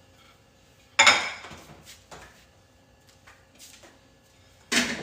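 Dishes and cutlery clattering as food is dished out: a loud clank about a second in, a few lighter knocks, and another clank near the end.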